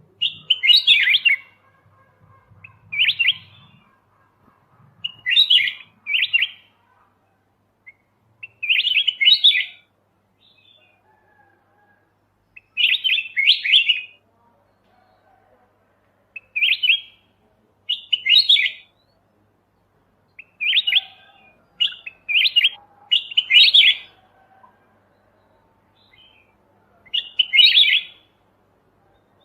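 Kutilang emas bulbul (white-eyed type) singing short, bubbly chirping phrases of about half a second each, repeated every one to three seconds with short pauses between them.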